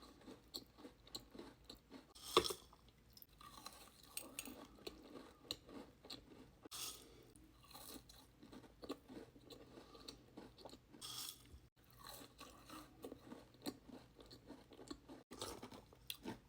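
Close-up chewing and crunching of a bitten Dubai chocolate cookie, with many small crackles and a loud crunch about two seconds in.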